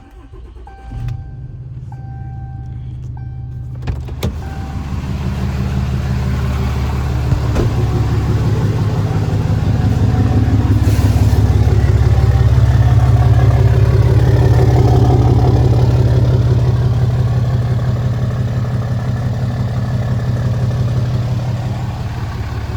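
Cummins 6.7 L turbo-diesel inline-six starting and idling through its old 4-inch exhaust, with a vehicle warning chime beeping in the first few seconds. The idle grows louder toward the middle and eases a little near the end.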